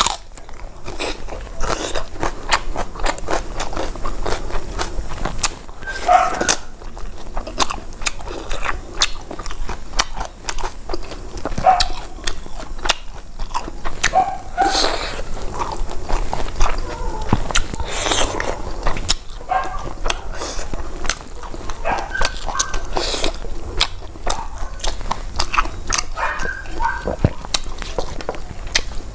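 Close-miked chewing of a mouthful of rice eaten by hand, with many small wet clicks and lip smacks, and a few short pitched mouth sounds.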